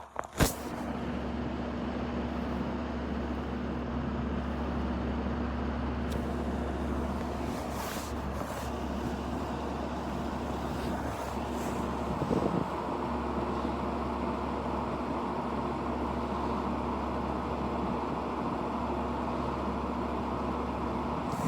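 Electric fan running steadily: an even rushing of air with a low hum. A sharp click about half a second in.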